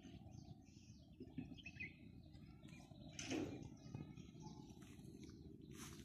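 Faint chirping of small birds in trees, scattered short calls over a quiet outdoor background, with a brief louder noise a little over three seconds in.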